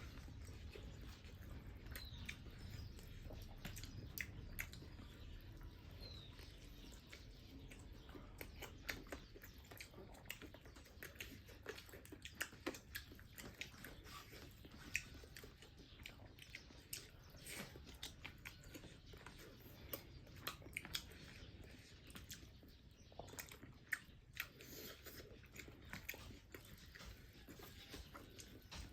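Faint close-up mouth sounds of eating: irregular wet clicks and small crunches of chewing and biting food, scattered all through.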